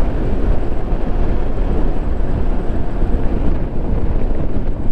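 Steady wind rush over the microphone of a moving motorcycle, with road and vehicle noise underneath.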